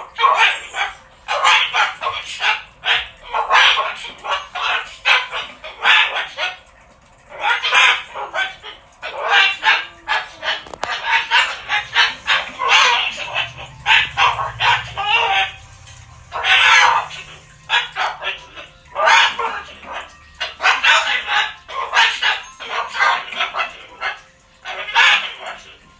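Pet bird screaming over and over in harsh, rapid calls, with only brief pauses: a screaming fit.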